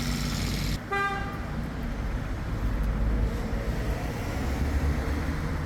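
Street traffic rumbling, with one short, steady car horn toot about a second in.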